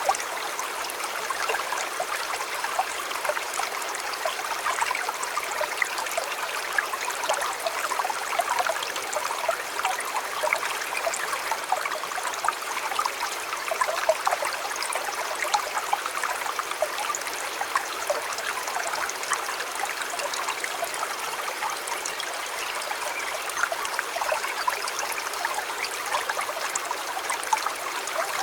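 Shallow river water flowing steadily over stones, a continuous babble with many small splashes and trickles.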